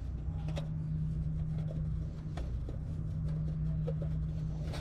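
Firewood burning in a titanium fire pit, crackling with scattered sharp pops at irregular intervals, over a steady low hum.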